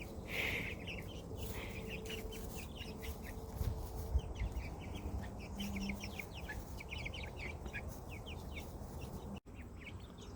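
A brood of young, half-grown chickens cheeping and chirping: many short, high peeps overlapping at an uneven pace.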